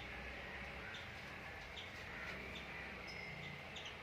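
Birds chirping in short, high, repeated notes, a few each second, over faint steady outdoor background noise.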